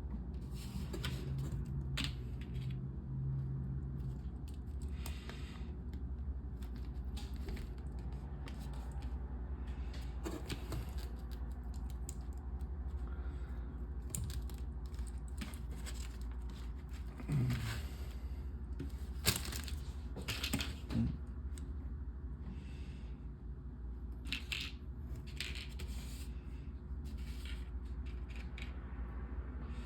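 Small plastic clicks and rattles of LEGO pieces being handled and pressed together, scattered and irregular, with a few louder snaps around the middle, over a steady low hum.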